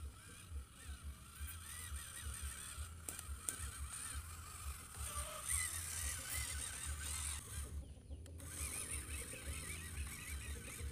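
Repeated honking bird calls over a low, flickering rumble.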